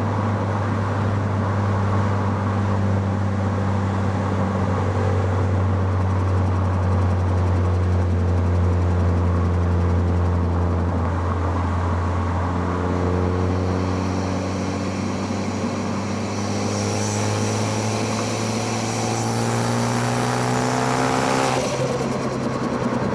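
Car engine heard close at its intake and exhaust, holding steady revs, then revving up steadily under acceleration for several seconds near the end before the revs drop suddenly.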